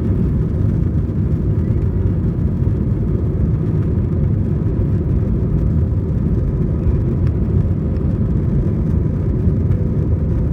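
Steady low rumble of an Airbus A320's engines and airframe heard inside the passenger cabin.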